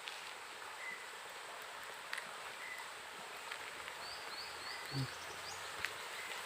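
Quiet outdoor ambience: small birds chirping, including a run of four short high calls about four seconds in, over a steady faint hiss.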